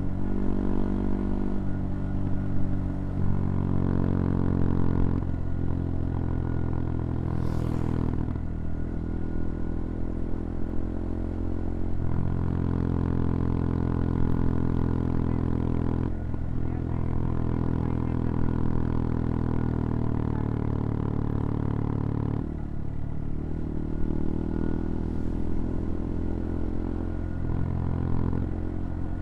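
CFMoto Papio XO-1's 125 cc single-cylinder engine running under way. Its note changes pitch in steps every few seconds as the rider works the throttle and gears.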